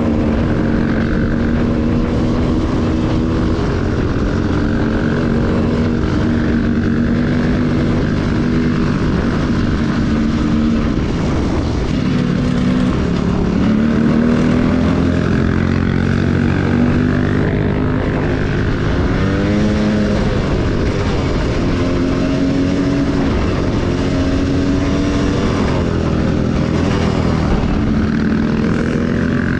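Enduro motorcycle engine running steadily under load, its pitch rising and falling gently with the throttle.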